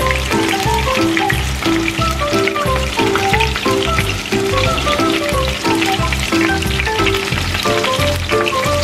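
Chicken breasts frying in oil in a pan: a steady sizzle with fine crackling. Background music with a melody and a bass line plays over it.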